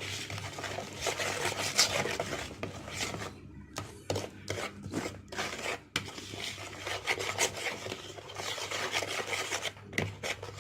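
A gritty paste of salt, flour, vinegar, oil and lemon juice being stirred in a bowl, the utensil scraping against the bowl in uneven strokes.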